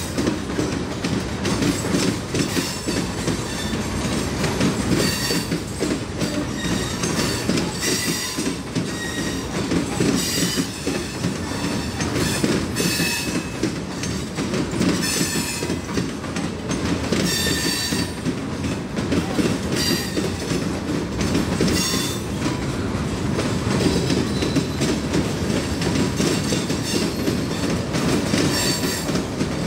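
Freight train's hopper cars rolling past: a steady rumble and clatter of steel wheels on the rails, with short, high wheel squeals every two or three seconds.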